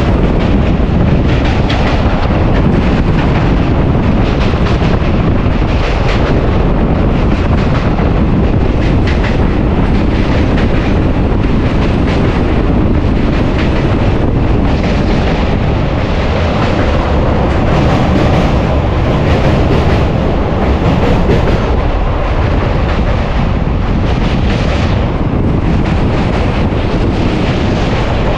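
Passenger train running fast over a steel truss bridge, heard from an open coach door: a loud, steady rumble with the rapid clatter of wheels on the rails.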